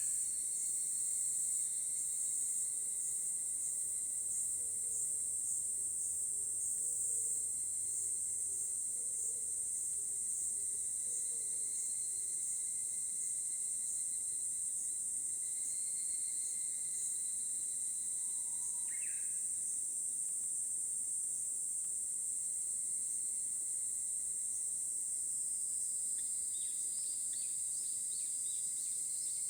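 A steady, high-pitched insect chorus trills without a break, with a few faint bird chirps, once about two-thirds of the way through and several near the end.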